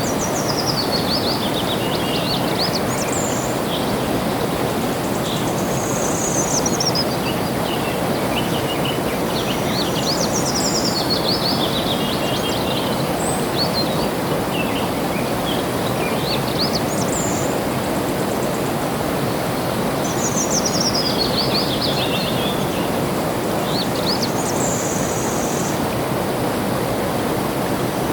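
Water flowing steadily, with a songbird repeating a high song phrase that falls in pitch, about once every five seconds.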